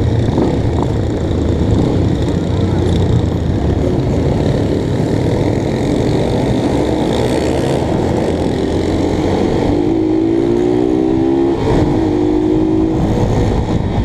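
Motorcycle engine running under way with heavy wind rumble on the microphone; about ten seconds in, an engine note climbs in pitch and drops back, a motorcycle accelerating.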